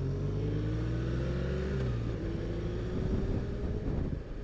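BMW R1200 RT boxer-twin motorcycle engine accelerating: the pitch climbs, drops at a gear change a little under two seconds in, then climbs again in the next gear.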